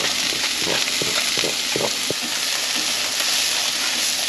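Mahi-mahi fillets sizzling steadily as they pan-fry in olive oil and butter, with beet greens sautéing in a second pan. A few soft taps sound in the first couple of seconds.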